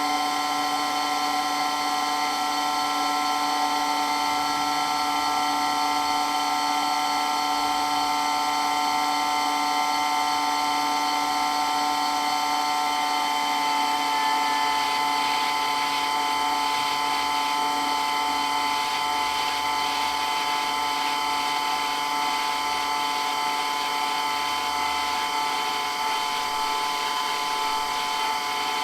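Electric water pump running continuously with a steady, loud whine made of several held tones over a hiss.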